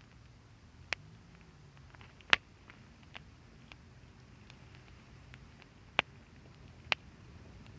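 Wood fire crackling: a handful of sharp pops, the loudest about two seconds in, with fainter ticks between them, over a low steady rumble.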